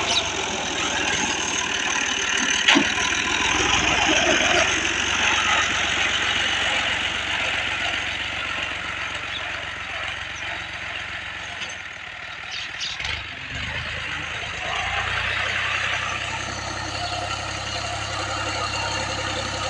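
Fiat 480 tractor's diesel engine running steadily, its sound dropping away briefly about two-thirds of the way through before coming back.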